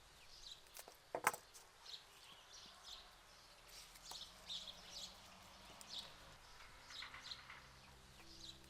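Small birds chirping faintly in short, scattered calls. One sharp knock a little over a second in.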